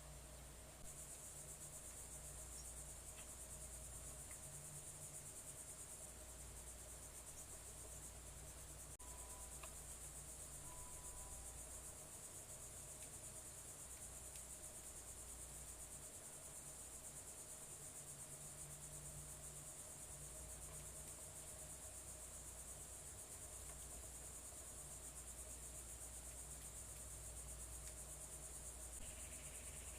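Faint, steady chorus of crickets, a continuous high trill that comes in about a second in, over a low background hum.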